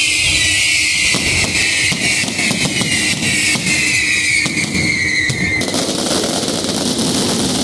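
Aerial fireworks going off overhead: a high whistle slowly falling in pitch for about five seconds over a run of sharp cracks, giving way near the end to a dense crackling hiss.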